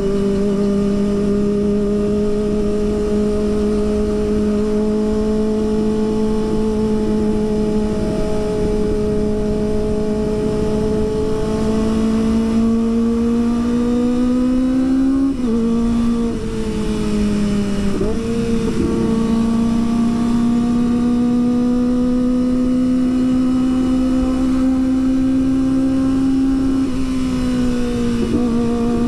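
Kawasaki ZX-25R 250cc inline-four running under way, its engine note climbing slowly. The pitch drops briefly twice, about halfway through and near the end, before climbing again.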